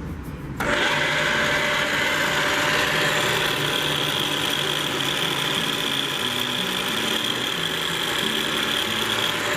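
Kone KR40 radial drill running: under a steady low electric-motor hum, a loud, even mechanical whirring switches on abruptly just under a second in and cuts off near the end.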